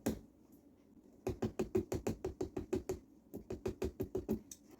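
Pumpkin-carving tool working rapidly into a pumpkin's rind: quick, even knocking strokes at about seven a second, in two runs broken by a short pause, after a brief pause near the start.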